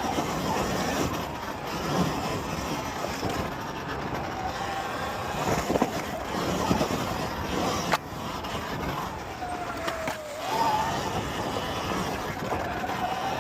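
Surron Ultra Bee electric dirt bike being ridden off-road, a steady rush of noise with the electric motor's whine falling and then rising in pitch near the end.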